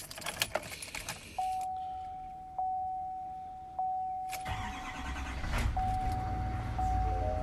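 A few light clicks and rustles, then a dashboard chime dings three times about a second apart. About four seconds in, the 2019 Duramax 6.6-litre V8 turbo-diesel cranks and fires on a cold start, sputtering a little as it catches, and runs with its level rising.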